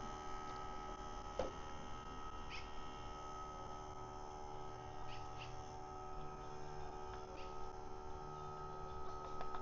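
Steady electrical hum with a high whine held on one pitch. A soft tap comes about a second and a half in, and a few faint short chirps come later.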